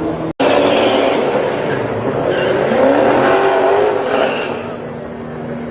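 Drag race car engines at full throttle, loud, with the engine pitch sweeping up and down in the middle and the sound easing off toward the end; a brief cut in the sound comes about a third of a second in.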